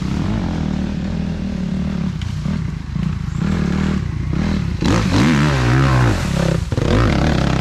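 Small off-road engine running steadily, then revving up and down several times about five seconds in.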